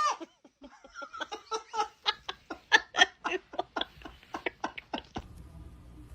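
A fast string of short vocal sounds, about four or five a second, that stops about five seconds in.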